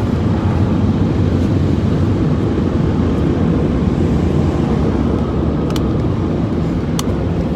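Steady low rumble heard from inside a car's cabin, with two light clicks near the end.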